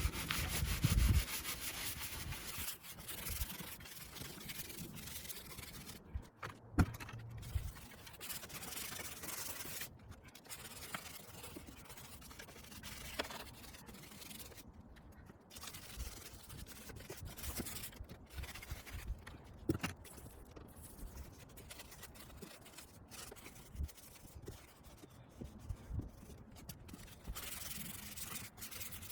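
Brush scrubbing a mini bike with soap and water: continuous rubbing strokes with scattered light knocks.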